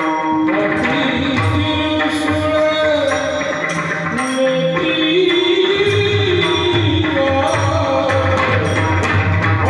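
Marathi kirtan music: a melody sung with gliding, ornamented pitch over a regular drum rhythm and jingling percussion.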